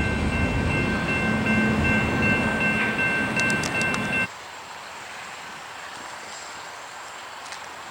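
Freight train rumbling past with a diesel locomotive's multi-chime horn held on one steady chord. It cuts off abruptly a little over four seconds in, leaving faint, steady outdoor background.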